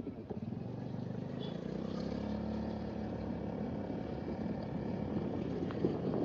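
A motor vehicle's engine running steadily, its hum strongest from about two to four seconds in.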